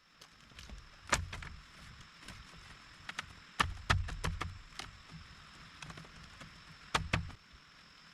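Irregular sharp knocks and dull thuds, in a cluster about four seconds in and a pair near the end, over a steady hiss.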